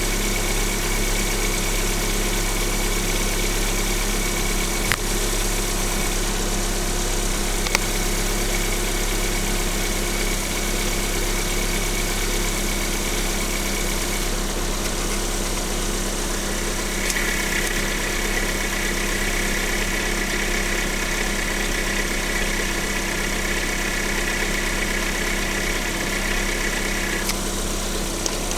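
Lada VAZ-21127 16-valve engine idling steadily, with a high whine over it that shifts about halfway through and is louder for about ten seconds before dropping away near the end. Two faint clicks come early on.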